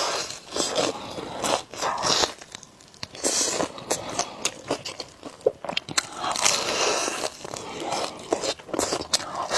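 Close-miked eating of spicy noodles: noodles slurped in short hissy bursts, with chewing and wet mouth clicks in between.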